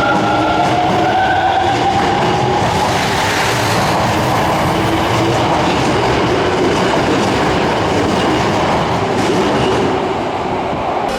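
Electric subway train pulling out of the platform: the motor whine rises in pitch over the first couple of seconds, then gives way to a steady rumble and clatter of wheels on rail.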